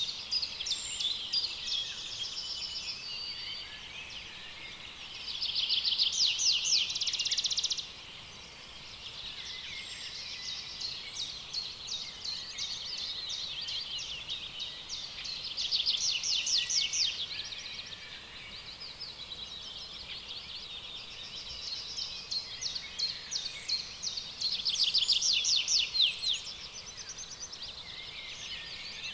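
Dense chorus of high-pitched bird calls and fast trills, swelling into louder trilling bouts about six, sixteen and twenty-five seconds in.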